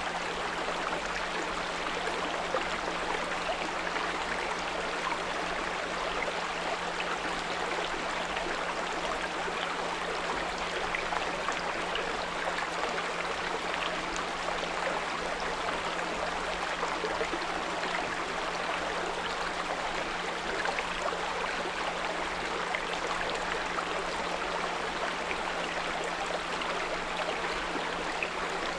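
A small brook babbling steadily, with a 174 Hz pure tone held steady underneath it.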